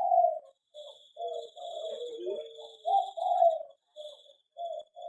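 Zebra doves cooing: a run of short, staccato coos, with more than one bird calling at once.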